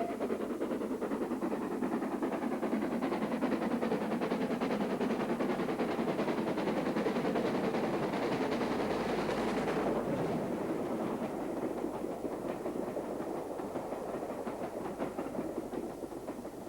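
Great Central Director-class 4-4-0 steam locomotive 62660 Butler Henderson working a train past: quick exhaust beats mixed with wheels clattering over rail joints. It is loudest through the first ten seconds or so, then fades as the train draws away.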